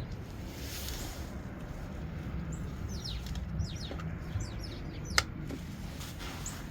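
Small birds chirping: many short, quick chirps that fall in pitch, over a steady low rumble. A single sharp click about five seconds in.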